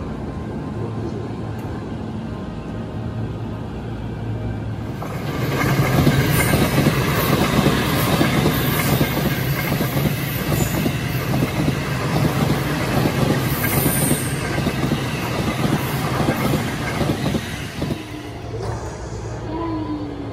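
Electric commuter train running past at speed: the rumble and rush of its wheels on the rails swell about five seconds in and die away after about twelve seconds, with a high wheel squeal near the middle. A steady low hum comes before it.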